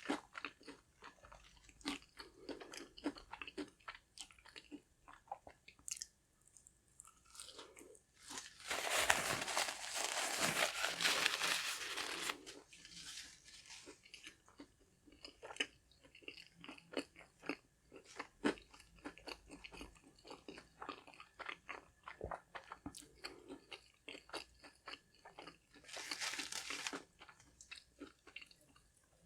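Close-miked eating: chewing and crunching of crispy fried fast food, with many small wet mouth clicks. Two louder crunchy stretches stand out, one of about four seconds a third of the way in and a shorter one near the end.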